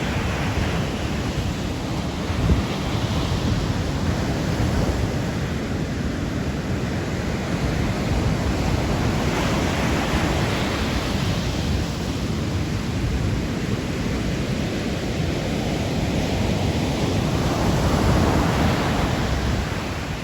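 Sea waves breaking and washing in, with surges about every seven to eight seconds, over a steady low rumble of wind on the microphone.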